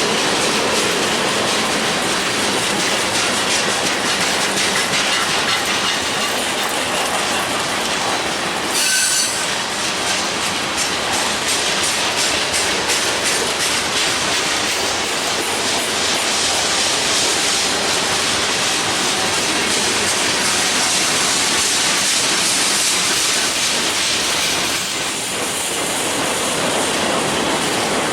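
Freight cars of a mixed manifest train rolling past at track side, a steady loud rumble with wheels clattering over the rail joints. A brief high wheel squeal comes about nine seconds in.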